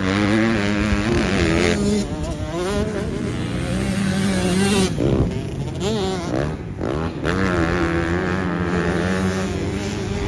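Dirt bike engine revving and riding, its pitch climbing and falling again and again as the throttle opens and closes.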